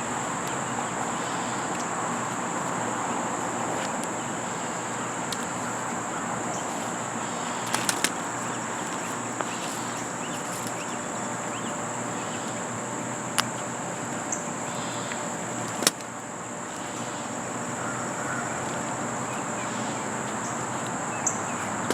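Steady high-pitched chorus of crickets or other insects over a constant rushing background, broken by a few sharp clicks or knocks.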